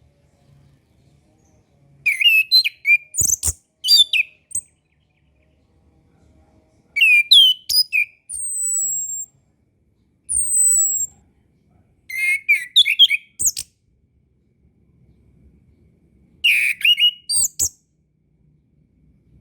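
Orange-headed thrush singing: short phrases of quick, varied warbling notes with pauses of a second or more between them. Two thin high whistles slide down in pitch near the middle.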